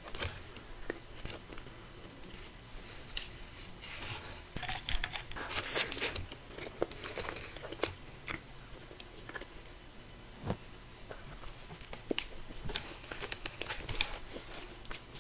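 Close-miked eating of a cookie: bites, chewing and wet mouth smacks, with irregular crackly clicks.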